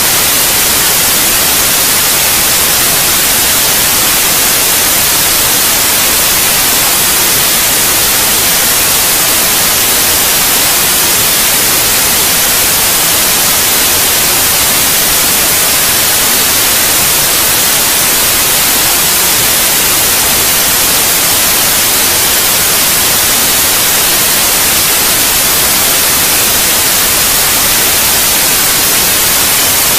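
Steady white noise, an even hiss brightest in the highs, unchanging throughout; sleep-aid white noise for babies.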